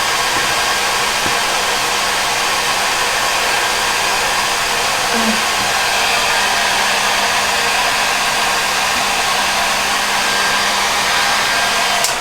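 Handheld blow dryer running steadily, blowing hot air into a soft bonnet hood attachment, with a faint steady hum under the rush of air. It cuts off at the very end.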